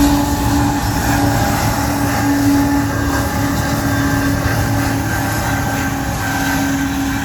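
Diesel-electric locomotives working as rear distributed power units on an empty Union Pacific rock train, a steady loud engine drone with a held tone as the train pulls away, easing slightly toward the end.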